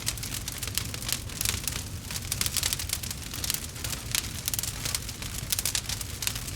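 Bonfire crackling: quick, irregular pops and snaps of burning wood over a low, steady rumble.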